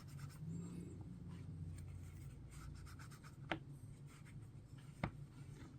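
Faint rubbing as the edge of a resin mold is wiped down by hand, with two small sharp ticks about a second and a half apart.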